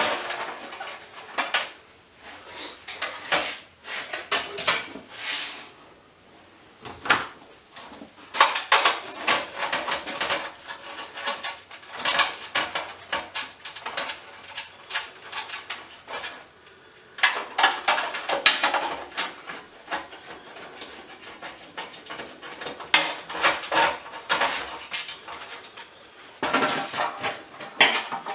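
Hand-dismantling scrap electrical fixtures with pliers and cutters: irregular metallic clicks, clinks and rattles of metal parts, screws and tools being handled and set down, with short lulls.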